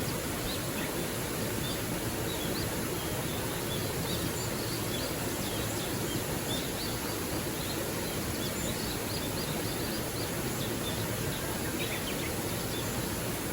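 Small waterfall splashing steadily into a gorge stream, with many short, high bird chirps scattered over the rush of water.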